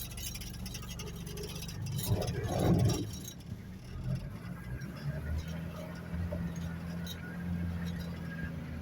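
Four-wheel-drive vehicle's engine running with a steady low hum, with a louder rush of noise about two to three seconds in.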